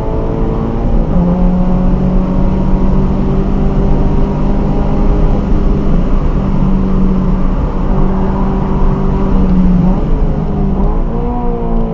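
Scion FR-S's flat-four engine pulling hard on track, heard from inside the cabin. The pitch steps about a second in, holds steady for several seconds, then dips and climbs again near the end.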